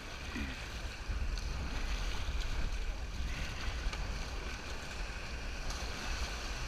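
River water rushing around a raft, with wind buffeting the microphone as an uneven low rumble.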